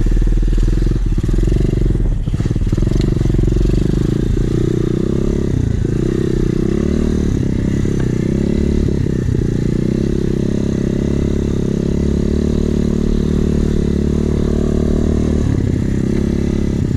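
Small Chinese pit bike engine running, its pitch rising and falling as the throttle is worked.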